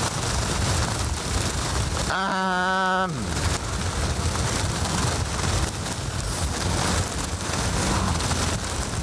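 Steady rush of rain and wind noise on the microphone of a scooter riding in the rain. About two seconds in, one held pitched tone lasts about a second and drops in pitch at the end.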